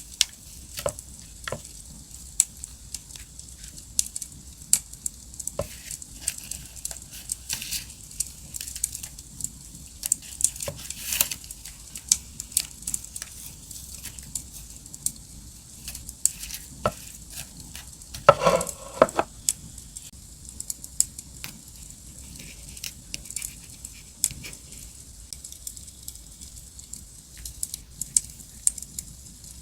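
Campfire crackling: irregular sharp pops and snaps over a steady hiss. One louder, fuller rustle-like sound lasts under a second about eighteen seconds in.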